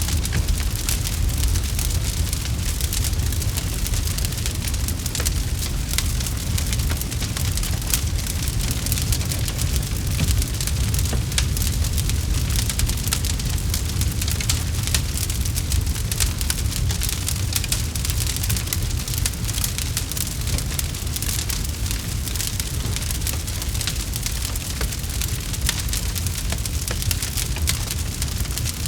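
Campfire crackling steadily, with many small pops and snaps over the low rumble of the burning fire.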